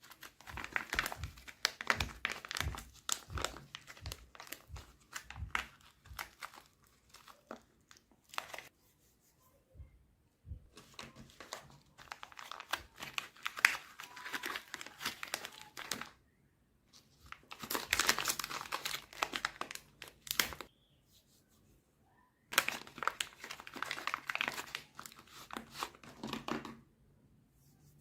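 Meat grinder crunching and crackling through something brittle, in several long stretches separated by short pauses, over a faint steady hum.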